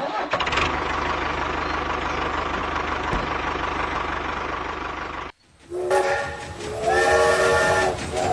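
A steady rushing noise over a fast low rumble that cuts off abruptly about five seconds in. Then a multi-note horn sounds in long held blasts, like a train horn.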